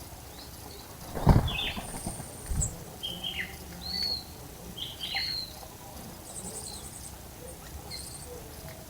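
Wild birds calling: several short whistled notes that arch or slide downward, and a few high, thin chirp series. Two low thumps come about a second in and again a little later, the first the loudest sound.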